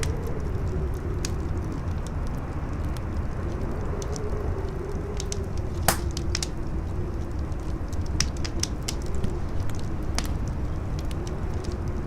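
Campfire crackling, with scattered sharp pops and one loud crack about halfway through, over a howling wind whose pitch slowly falls and rises.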